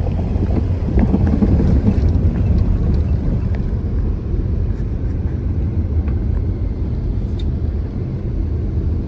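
Car driving, a steady low rumble of engine and tyres heard from inside the cabin, with a few light clicks and rattles.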